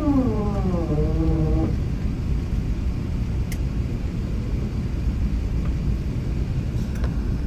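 Steady low rumble of the Airbus A380's cabin as it rolls on the ground after landing. In the first second and a half a whine falls in pitch, levels off and then cuts off abruptly.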